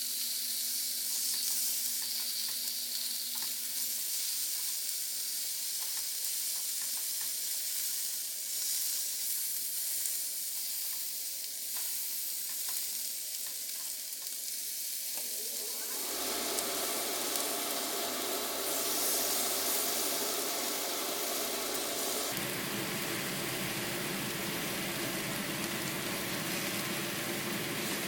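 Meat sizzling and frying on a Korean barbecue grill, a steady hiss. About 16 seconds in the sound changes abruptly to a fuller, deeper noise, and it changes again near 22 seconds.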